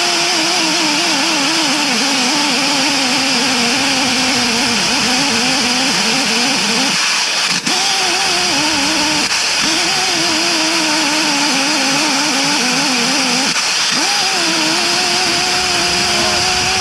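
An engine running fast under changing load, its pitch wavering up and down and dipping briefly about seven and nine seconds in, with a single click near the middle.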